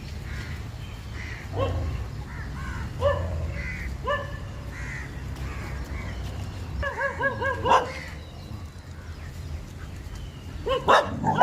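Street dogs whining and yelping in short, pitched cries, with a longer wavering whine about seven seconds in, over a steady low rumble.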